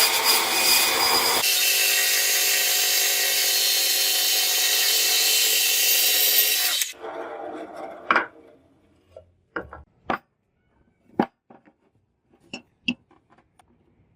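An electric power tool runs steadily with a whining note that shifts about a second and a half in, then switches off and winds down about seven seconds in. A few light knocks and clicks follow.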